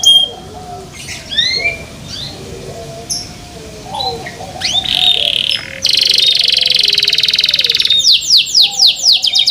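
Domestic canary singing. Loud fast trills open it, then come a few quieter short chirped phrases, then a long, rapid rolling trill from about halfway. Fast sweeping trills close it out, with fainter, lower warbled calls underneath.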